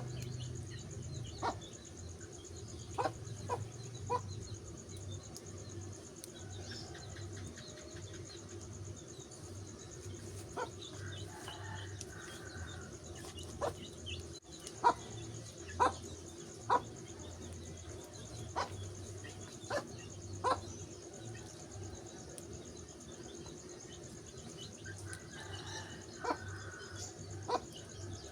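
Wood fire crackling, with sharp pops at irregular intervals every second or two over a steady low rumble.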